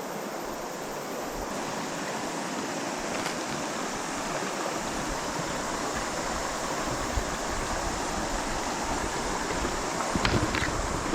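Small mountain stream running over rocks: a steady wash of water noise, with a few short knocks or splashes near the end.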